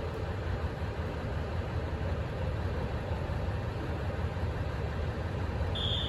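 Train pulling slowly into a station platform: a steady low rumble from its engine and running gear. A high-pitched squeal starts near the end.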